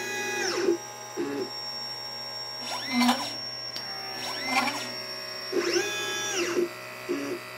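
LitePlacer pick-and-place machine's stepper motors moving the head between parts and board while placing components. Each move is a whine that rises in pitch, holds, then falls as the axis speeds up and slows down, several moves in a row. Shorter low buzzes come between the moves.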